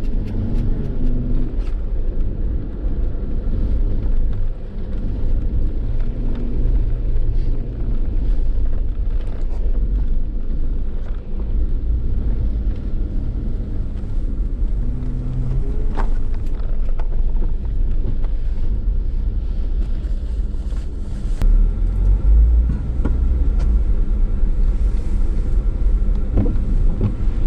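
Jeep being driven on a snowy road: a steady low rumble of engine and tyres, swelling about two-thirds of the way in, with a few faint clicks.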